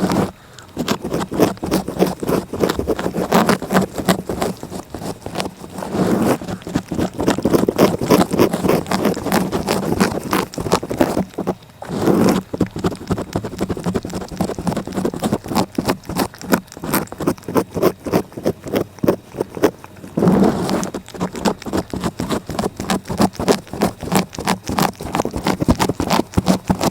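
A cat licking close to the microphone: rapid, repeated rasping tongue strokes, with a brief pause about twelve seconds in.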